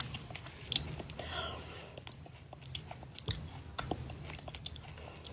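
A person chewing food close to the microphone, with irregular small mouth clicks and wet chewing noises.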